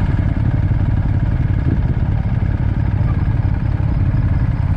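Ducati Monster's V-twin motorcycle engine running steadily at an even pitch.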